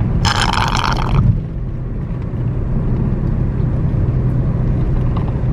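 Steady low rumble of a car driving, heard from inside the cabin. About a second of bright buzzing noise comes shortly after the start.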